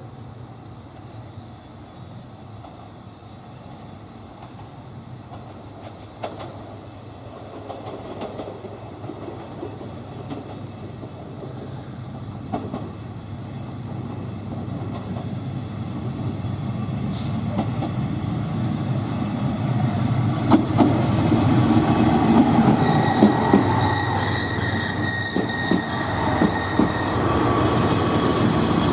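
Train approaching on the rails, growing steadily louder, with wheels clicking over rail joints and a high wheel squeal in the last third.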